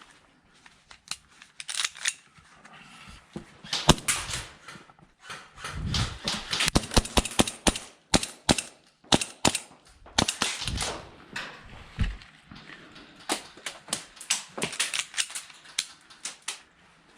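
Airsoft guns firing: irregular strings of sharp cracks, some single, some in quick runs, bunched into several volleys.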